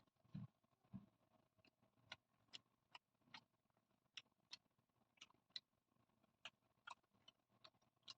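Close-miked chewing: soft wet mouth clicks and smacks, about two a second, with a couple of duller low thumps in the first second.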